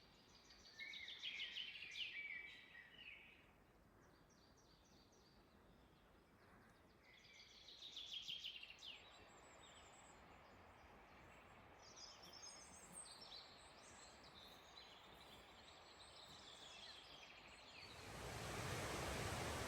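Songbirds singing faintly in a forest: a trilling song phrase near the start and again at about eight seconds, with softer high calls in between. Near the end a steady, even hiss suddenly takes over.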